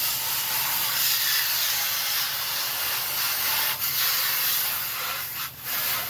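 A sprayer hissing steadily as liquid is sprayed over air-conditioner parts, with two short breaks in the spray, one just before four seconds in and one about five and a half seconds in.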